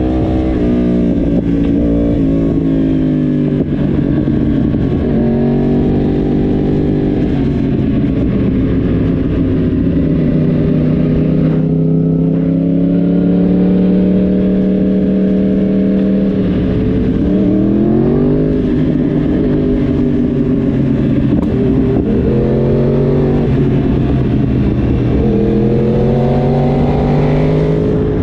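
Yamaha YZF-R1 crossplane inline-four engine heard from on board while riding, its revs rising and falling repeatedly as the throttle opens and closes through the bends, with wind rush beneath.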